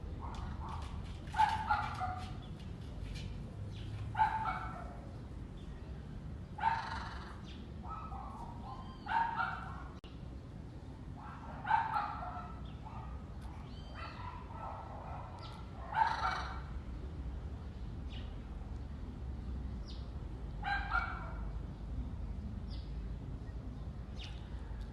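Parrot giving short, dog-like barking calls, about nine of them a few seconds apart, with a longer pause before the last one.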